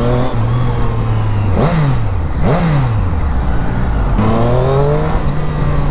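Triumph Street Triple RS three-cylinder engine pulling under way. Its pitch climbs, holds, then dips and swings up sharply between about one and a half and three seconds in, and climbs steadily again near the end.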